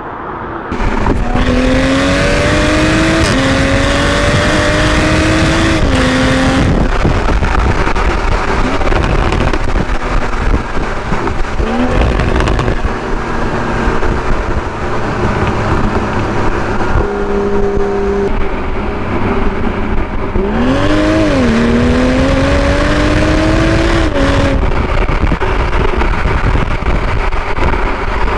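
Toyota GR Supra exhaust under hard acceleration. The engine note climbs steadily with the revs and drops sharply at each upshift, over several pulls joined by abrupt cuts.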